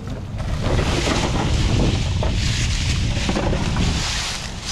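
Wind buffeting the microphone: a loud, steady low rumble with a hiss over it, and a few faint knocks.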